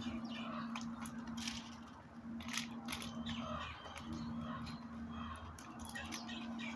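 Small backyard birds chirping, with sharp clicks and taps among the calls, over a steady low hum that drops out briefly a few times.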